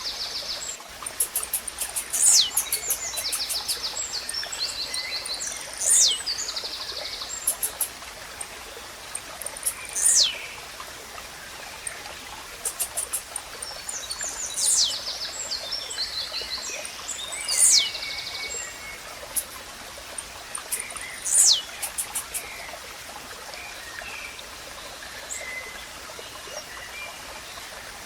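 Blue-black grassquit (tizil) repeating its short, high call that falls steeply in pitch, about every four seconds. Between the calls other small birds give rapid, clicking trills, over a steady background hiss.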